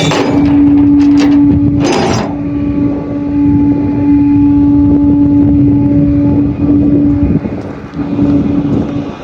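Flatbed tow truck running, with a steady droning hum. A short rush of noise comes about two seconds in.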